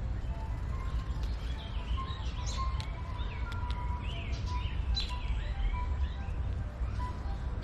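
Several small birds chirping and calling in quick, overlapping notes, over a steady low rumble.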